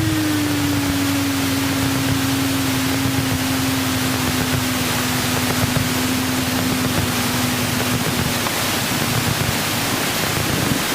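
Cessna 172 cabin noise on landing: the engine drones at idle, its pitch dropping a little in the first second and then holding, under a constant rush of airflow. The engine tone fades about eight and a half seconds in as the plane slows through touchdown and rollout.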